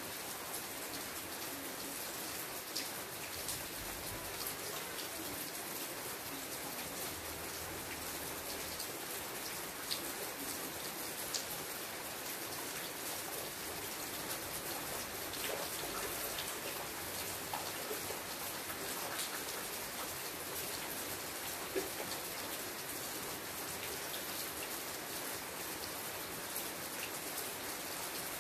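Steady rain falling on a leafy shrub: an even hiss, with scattered sharper ticks of single drops.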